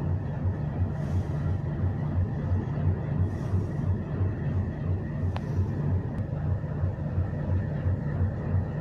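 Train running: a steady low rumble that pulses in a fast, even rhythm.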